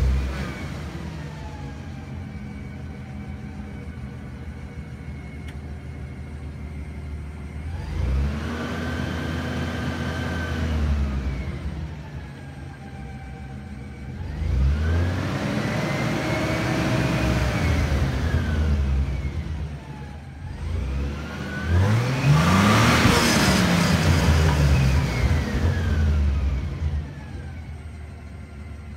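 Toyota FZJ80 Land Cruiser's 1FZ-FE 4.5 L straight-six petrol engine, heard at the tailpipe through an old exhaust with its rear muffler removed, so a bit louder than stock. It flares as it settles to idle just after starting, then is revved three times, to about 1500, 2500 and 5000 rpm, each rev higher and louder than the last and falling back to idle.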